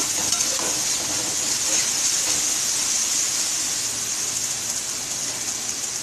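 Chicken and vegetables in tomato-spice masala sizzling in hot oil in an aluminium kadhai while a slotted metal spatula stirs them: a steady high hiss of frying.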